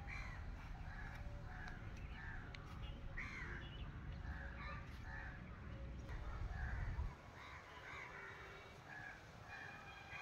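Birds calling over and over, short arched calls overlapping one another, over a low rumble that drops away about seven seconds in.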